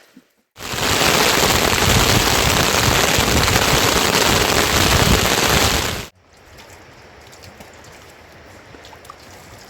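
Heavy rain pouring down in a loud, steady hiss that starts abruptly about half a second in and cuts off abruptly about six seconds in, leaving a much fainter steady hiss.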